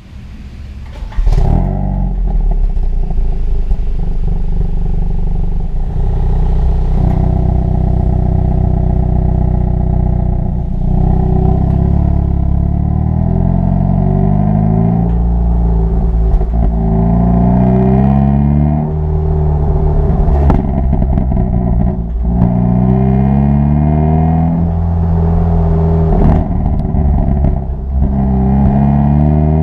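2022 Hyundai Kona N's 2.0-litre turbo four-cylinder exhaust in N mode: the engine starts with a loud flare about a second in and settles to a steady run. Later the engine note rises again and again, falling back between climbs, with a few sharp pops in between.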